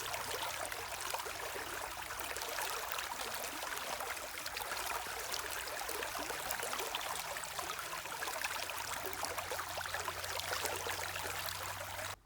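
Running water of a small river or stream: a steady rush with fine trickling splashes. It cuts off suddenly near the end.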